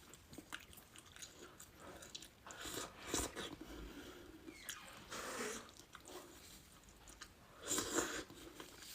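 Close-miked chewing and biting of someone eating, soft and wet with a little crunch. A few louder mouthfuls come every two to three seconds.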